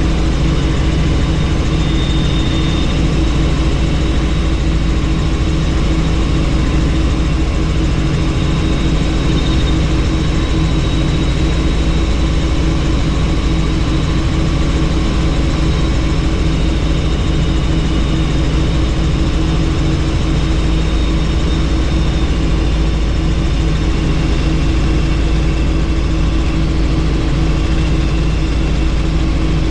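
Helicopter in steady flight heard from on board: a constant drone of rotor and engine with steady humming tones over a rushing noise, unchanging throughout.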